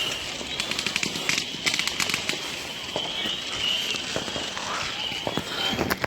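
Fireworks going off, with clusters of rapid crackling pops.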